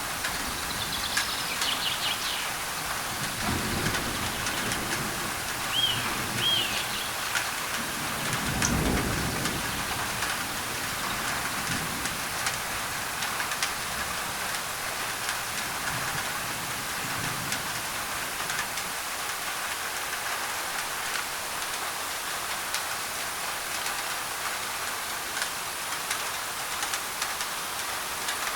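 Steady rain falling on a thin tin roof, with a few bird chirps in the first seven seconds and low rumbles of thunder swelling about four, nine and sixteen seconds in.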